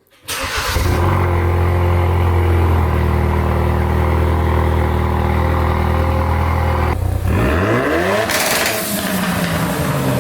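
2016 Ford Focus RS's turbocharged 2.3-litre four-cylinder with the muffler deleted, starting up. It catches a split second in and settles into a loud, steady idle, then is revved once near the end, the pitch climbing and falling back.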